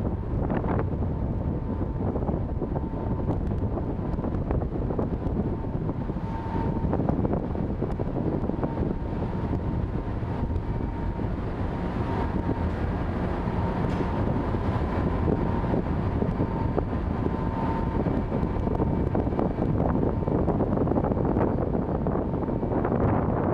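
Wind buffeting the microphone over the steady low rumble of a ship under way, with a faint steady high whine through most of it.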